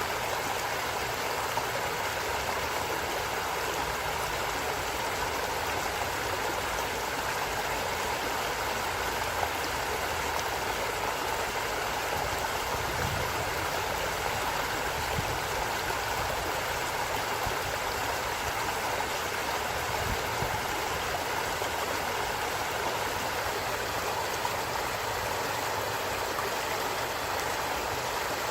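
Forest stream running, a steady rushing and gurgling of water.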